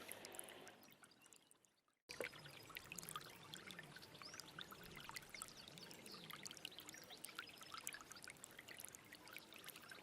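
Stream water running over stones, fading away to silence over the first two seconds, then cutting back in abruptly as a steady babbling trickle full of small plinks and splashes.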